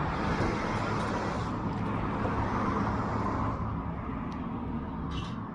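Wood fire crackling with a few sharp pops, while a car passes by, its rushing swelling and then fading after about three seconds.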